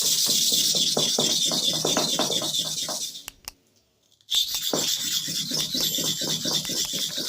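Hair-clipper blade being honed on an oiled sharpening stone: quick back-and-forth gritty rubbing strokes, in two runs with a pause of about a second between them.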